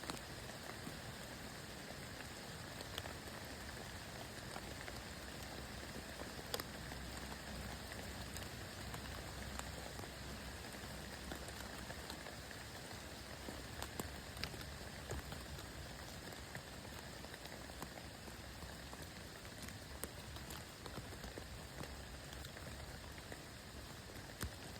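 Steady spring rain falling, a soft even patter with scattered louder drips and drop strikes.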